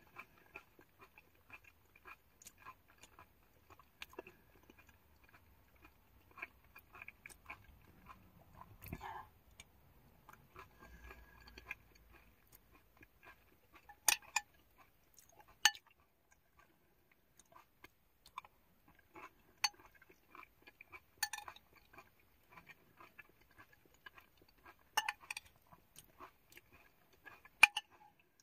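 Close-up chewing and crunching of crisp vegetables, onions and peppers, as a person eats, with a few louder sharp clicks scattered through.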